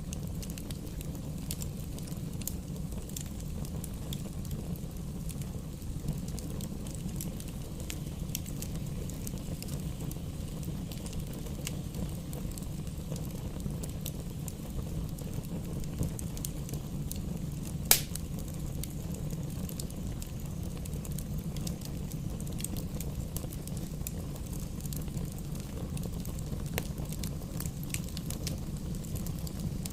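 Campfire burning: a steady low rumble of the fire with scattered sharp crackles and pops throughout, and one loud pop about 18 seconds in.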